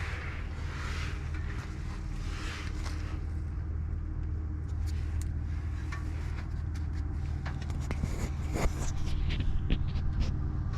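A vehicle engine idling steadily with a low hum, and scattered light clicks and scrapes in the second half.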